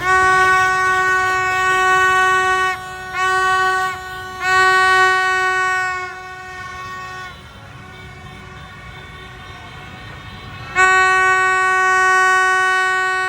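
A horn sounding in long, steady blasts on one pitch: three in the first seven seconds, a pause of a few seconds, then another long blast from about eleven seconds in, over low background noise.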